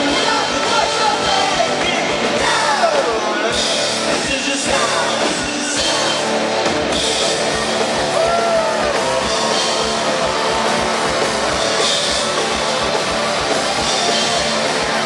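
Rock band playing loudly live, with a singer over the band and cymbal crashes every few seconds.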